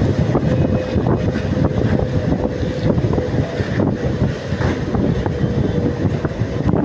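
Metro train running: a steady rumble with a faint steady whine and scattered small ticks.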